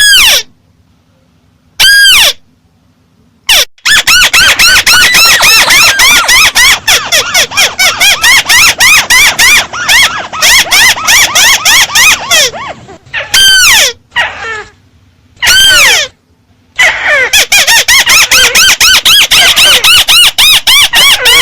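Volume-boosted recording of a bird calling: loud, rapid runs of short, arched chirps, many per second, broken by a few brief pauses.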